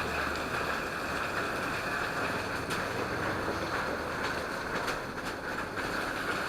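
A waterfall running full: a steady, even rush of falling water.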